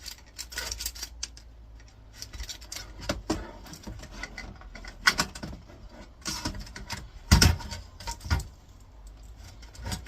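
Metallic clicks, rattles and knocks of a circuit board being pushed and worked out of its slot in a computer monitor's metal chassis, with a sharp knock about five seconds in and the loudest about seven and a half seconds in.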